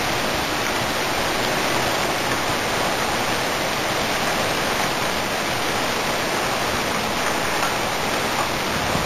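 Heavy thunderstorm downpour: rain pouring onto pavement and a flooded street, a dense, steady hiss.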